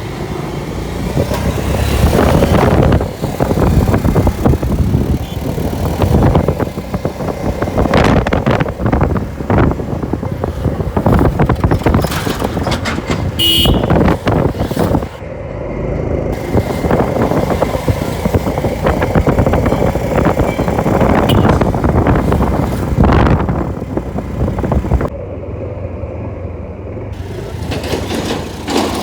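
Motorcycle running while being ridden, engine and road noise throughout.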